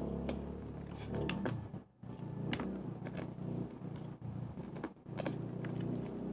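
Close-up chewing of crispy deep-fried pork intestine (chicharon bulaklak), with short sharp crunches every half second or so over a steady low hum.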